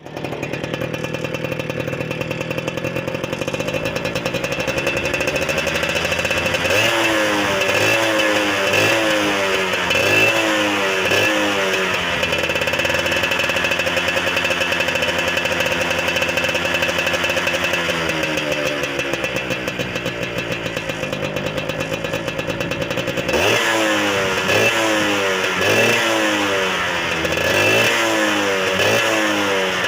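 Motorcycle with a hollowed-out stock exhaust muffler running, with a jingling, two-stroke-like note. It is blipped in a series of quick revs about seven seconds in and again from about twenty-three seconds, holding a steady idle in between.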